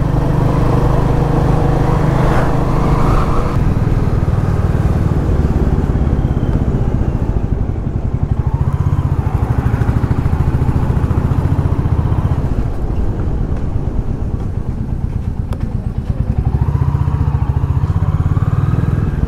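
Royal Enfield Classic 350's single-cylinder engine running steadily while the motorcycle is ridden, its low note pulsing rapidly and evenly.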